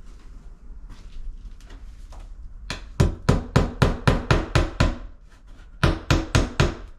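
Hammer tapping a small nail into pressed-wood window trim: a quick run of about ten strikes, roughly four a second, then a short pause and four more.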